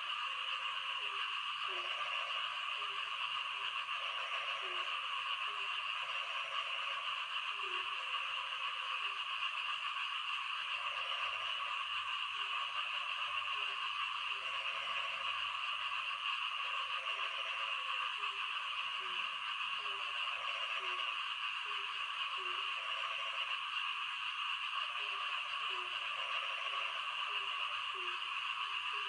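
A chorus of frogs calling: a steady high-pitched trilling chorus with short, low croaks repeating irregularly, about one or two a second.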